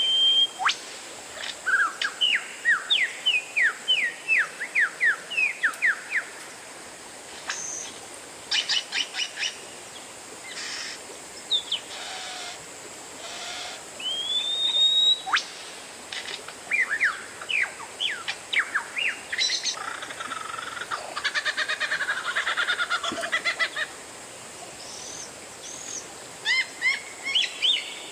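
Oriental magpie-robin (kacer) singing a varied song: rapid runs of short falling whistled notes, a single long rising whistle about halfway through, and a harsh, buzzy scratchy passage in the later part.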